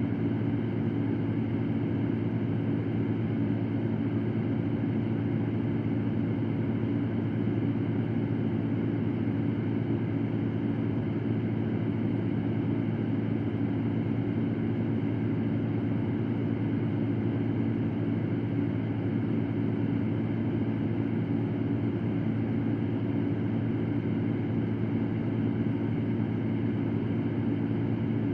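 Fan running steadily: an even, unchanging rushing noise, strongest and deepest in the low range, used as white noise for sleep.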